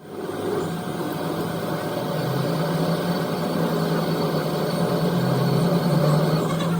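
A machine motor running steadily with a low hum, its pitch shifting slightly about two seconds in.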